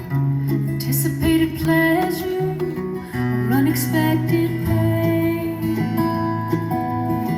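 Live bluegrass band playing a song's instrumental introduction, led by acoustic guitar, with a few sliding notes about halfway through.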